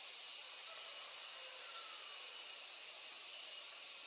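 Steady high hiss with no distinct events, a faint thin tone running underneath.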